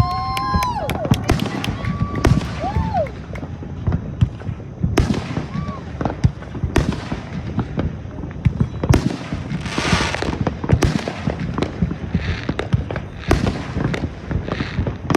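Consumer fireworks going off in quick succession: many sharp bangs from aerial shells and cakes, a few gliding whistles in the first few seconds, and bursts of crackle around the middle and later on.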